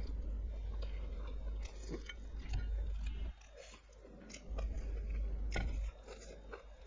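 Close-miked eating: chewing and biting with wet mouth clicks and smacks over a low rumble, going quieter for about a second twice.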